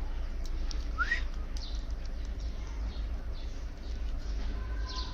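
Small pet birds chirping and tweeting while being hand-fed seeds, with one short rising chirp about a second in and a few brief high tweets.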